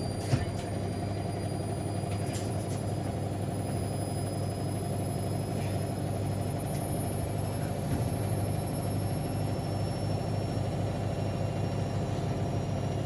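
Washing machine running mid-cycle: a steady low rumble with a faint high-pitched motor whine, and a small click right at the start.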